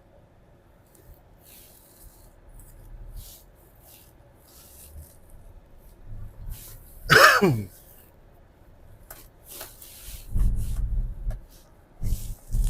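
A man coughs once, loudly, about seven seconds in, the sound falling in pitch as it ends. Quieter low rumbling follows near the end.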